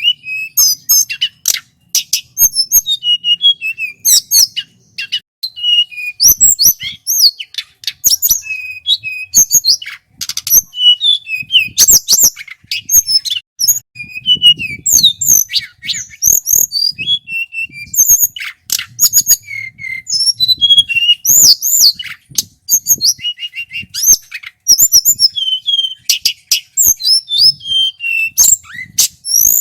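Male tledekan gunung (hill blue flycatcher) singing: a continuous run of rapid, high whistled notes, trills and sweeping phrases with only brief pauses.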